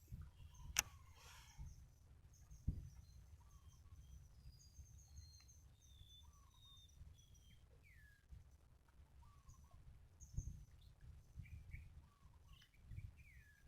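Faint birdsong: scattered short chirps and whistled calls, some sliding down in pitch, over a low rumble of wind on the microphone, with two sharp clicks in the first three seconds.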